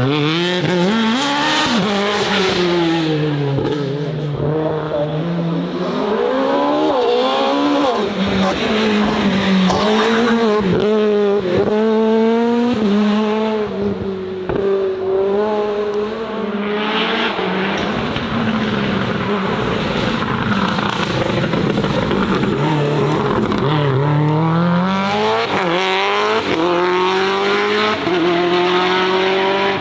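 Racing car engine at full throttle on a hillclimb course. The pitch climbs and drops over and over as it shifts through the gears, with a run of quick rising and falling revs in the middle under braking and downshifts.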